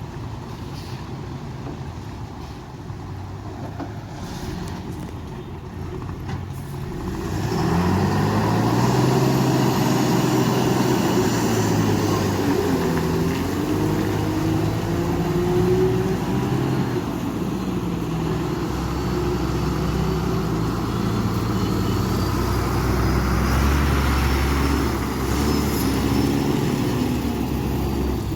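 Heavy truck's diesel engine running under load, getting much louder about seven seconds in, its pitch rising and falling as it revs.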